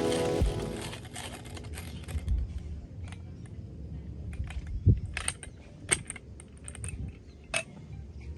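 Background music fading out, then a scatter of light, sharp clicks and clinks of small hard objects being handled, over a low steady rumble.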